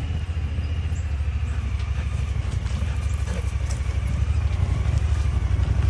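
Engine of a small farm utility vehicle running as it drives, a low, rapid, even throb that grows a little louder about four seconds in.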